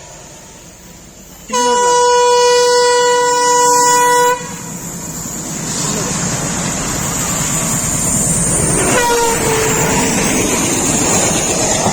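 Express train's horn sounding one long steady blast about a second and a half in, lasting about three seconds. The rumble of the train then builds and stays loud, with a shorter, fainter horn note about nine seconds in.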